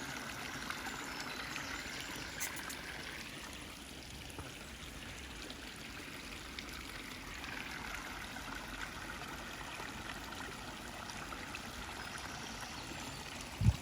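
Shallow stream flowing over stones, a steady rushing of water. A single short thump sounds near the end.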